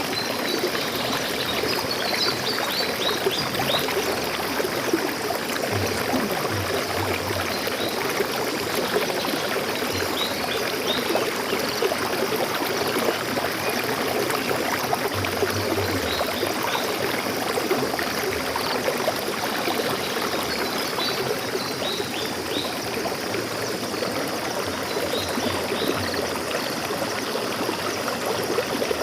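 Stream water flowing and splashing steadily. A few faint, high bird chirps come through it in short clusters.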